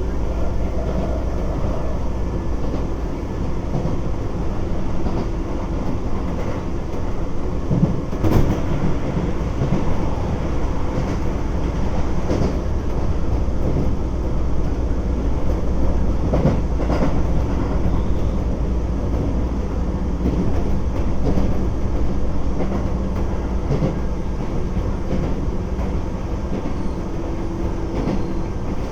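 Keisei 3400 series electric train running at speed, heard from inside the car. There is a steady rumble of wheels on rail, with the clack of rail joints now and then; the sharpest knock comes about eight seconds in.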